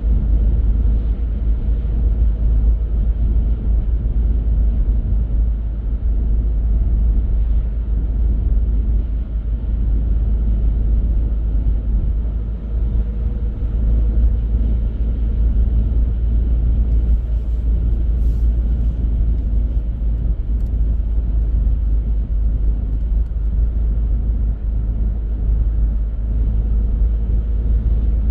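A car driving steadily along a road: a constant low rumble of road and engine noise.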